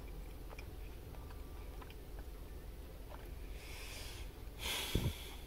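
Quiet eating sounds as someone bites into and chews a thick, sticky mochi cake, with faint mouth clicks. Near the end come two short hissy noises, the second louder and ending in a low thump.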